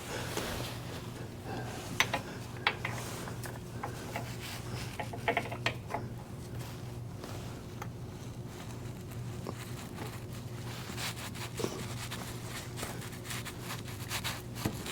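Scattered clicks, scrapes and rubbing of hands working the magnetic transmission filter with its O-ring back into its housing, over a steady low hum.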